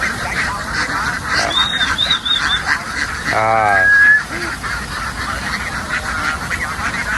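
A large flock of domestic ducks quacking in a constant, dense chatter, with one louder, closer call about three and a half seconds in.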